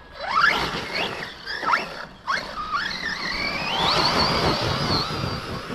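Electric RC monster truck's brushless motor whining under throttle: a few short rising bursts, then a long climb to a high, steady whine held for about a second and a half as it runs flat out.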